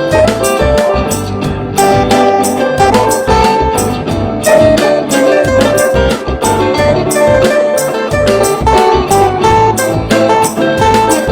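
A band jamming an improvised instrumental passage: guitar notes over bass and a steady drum beat.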